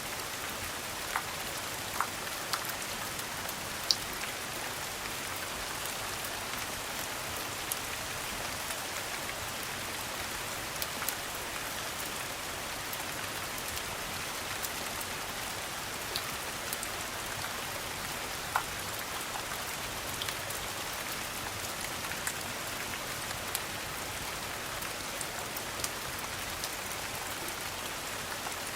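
Steady rain, an even hiss of falling drops, with scattered sharp pops and clicks here and there, the loudest about four seconds in and again past the middle.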